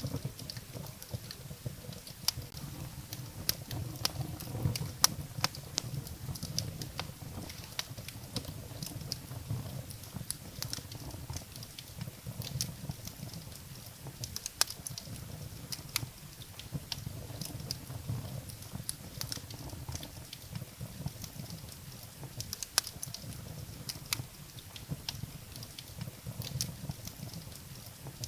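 Wood fire burning in a fireplace: firewood crackling and popping in irregular sharp snaps over a low, steady rumble of flames.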